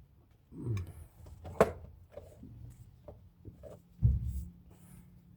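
Tools and brake parts being handled: a short scrape, then a sharp click about one and a half seconds in, a few light knocks, and a dull thud about four seconds in.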